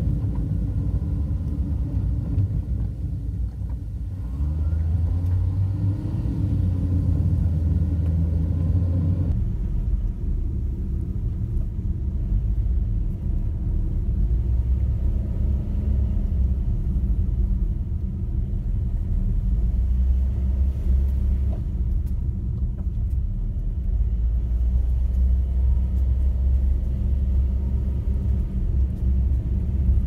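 Car engine growling under load in a low gear on a steep uphill climb, heard from inside the car as a steady low drone. About nine seconds in it drops abruptly to a lower, deeper drone.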